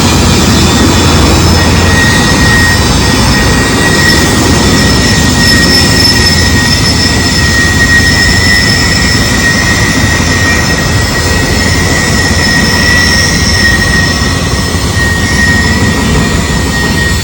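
Construction machinery running steadily: a loud, continuous roar with a low rumble and a high, steady whine.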